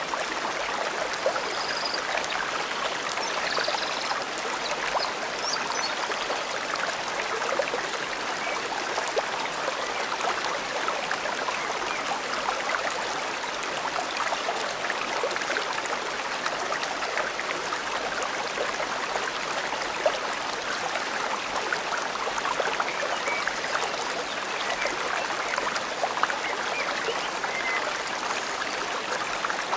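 Forest stream flowing steadily, with a constant trickling, babbling rush of water. A few faint, short high bird chirps come in the first few seconds.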